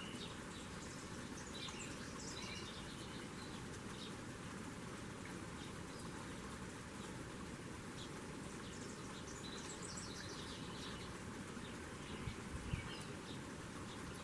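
Small birds chirping on and off at a feeder over a steady background hiss, with a brief low thump near the end.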